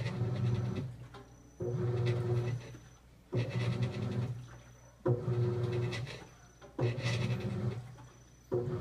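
Continental Aqua Saver 16 kg washing machine in its initial agitation. The agitator motor hums in strokes about every second and three-quarters, each starting suddenly, running about a second with water and clothes swishing, then trailing off before the next.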